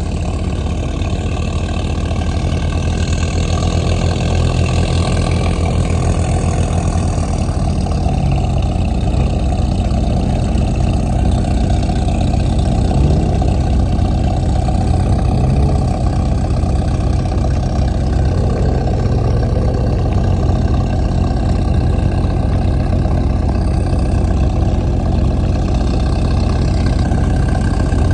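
Toyota Supra's engine idling steadily just after a cold start.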